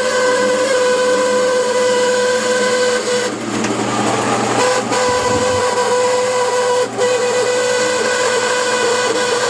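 Fisher and Paykel washing machine screeching during the rinse cycle: a loud, steady, high-pitched screech that drops out briefly twice. The screech persists after a new diverter valve and comes from a failing drain pump.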